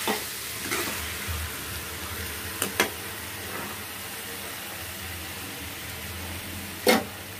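Chicken and tomato frying in a kadai, a steady sizzle. A few sharp clinks of a steel spoon against the pan, the loudest near the end.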